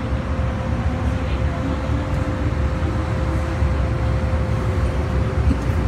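MTR M-Train running at speed, heard from inside the passenger car: a steady low rumble of wheels and running gear with a thin steady tone above it.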